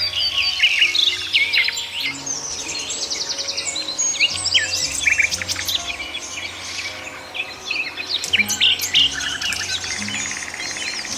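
A chorus of small birds chirping and trilling over one another in quick, overlapping calls, with a faint steady music bed underneath.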